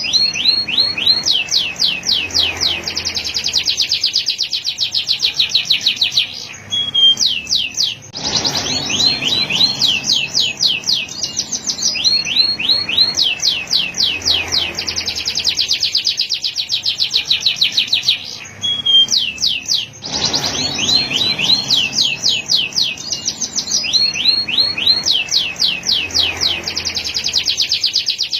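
Male canary singing long phrases of fast trills, each made of rapidly repeated notes, with short breaks about 7 and 19 seconds in.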